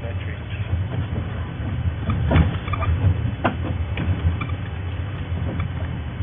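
Game-drive vehicle's engine running with a steady low hum, with scattered clicks and knocks, the loudest about two and a half seconds in and another a second later.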